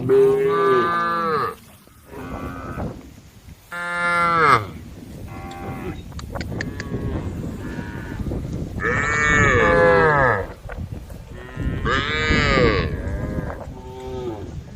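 Several cows mooing one after another, their long calls bending up and down in pitch and sometimes overlapping. The loudest calls come right at the start, about four seconds in, and twice more later, with quieter moos in between.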